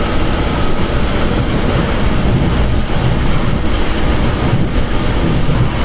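Passenger train running on the rails, heard from inside a carriage: a steady, loud rumble of wheels and car body.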